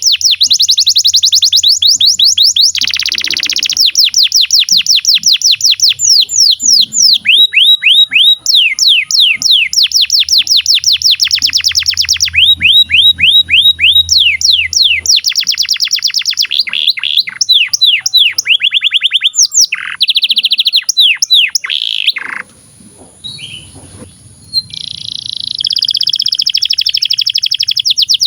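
Domestic canary singing a long, fast song: rolling trills and rapid runs of repeated down-sweeping notes, changing from one phrase type to the next, with a short quieter break about 22 seconds in before the trilling resumes.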